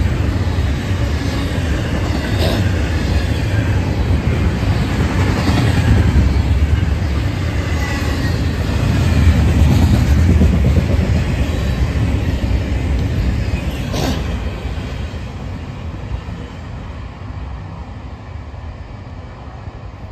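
Norfolk Southern double-stack intermodal freight train rolling past: a heavy, steady rumble of steel wheels on rail, with a few sharp clanks from the cars. It fades away over the last few seconds as the end of the train passes.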